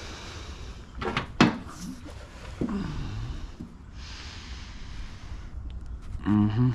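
Hand work on pressure washer pump fittings: a few sharp knocks and clicks of parts and tools about a second in, then handling rustle, with a brief voice sound near the end.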